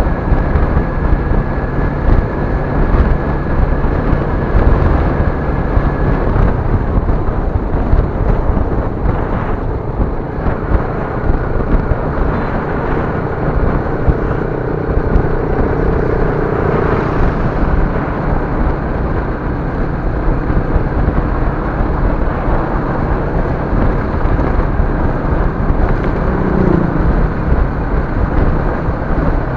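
Steady driving noise from a moving vehicle, engine and road noise heard through a dashcam's built-in microphone, with a faint steady whine that stops about six seconds in.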